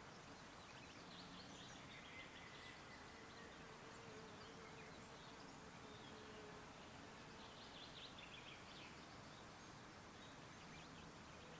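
Faint wild birdsong: two spells of short, high chirps over a quiet outdoor hiss.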